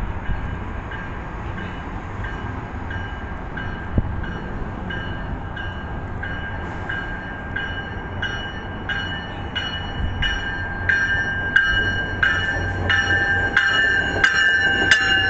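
A train coming on, with a rhythmic clatter of sharp strokes, each carrying a high ringing tone. The strokes come about twice a second at first, then closer together and louder toward the end.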